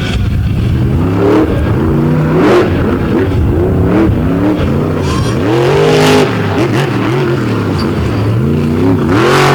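Monster truck engine revving hard over and over, its pitch climbing and falling with each blip of the throttle, about once a second.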